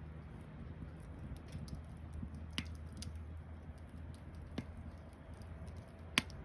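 Wood campfire crackling: a low steady burning sound with scattered sharp pops, the loudest about six seconds in.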